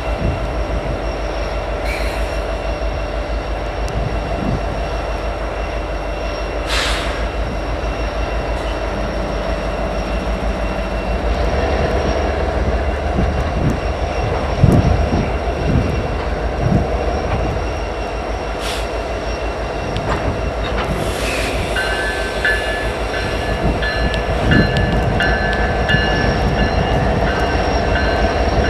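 Diesel freight locomotives running with a steady low rumble. A few heavy clanks come about halfway through, and from about two-thirds in a high tone repeats rapidly.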